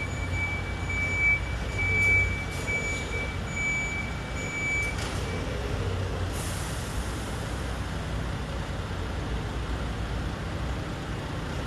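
Garbage truck's diesel engine running with a steady low rumble while its reversing alarm beeps repeatedly for about the first five seconds. A short air-brake hiss comes about six seconds in.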